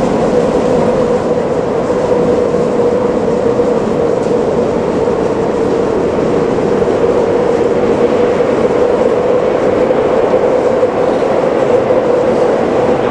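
Tokyu 5050 series electric commuter train approaching and pulling into an underground station platform. Its running noise of wheels on rail is steady throughout, with a constant mid-pitched hum.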